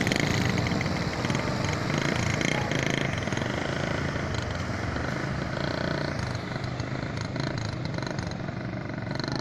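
Tractor engine running steadily, with voices mixed in.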